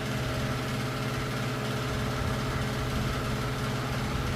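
Steady low mechanical hum with a few fixed tones above it, unchanging, like a motor running in the background.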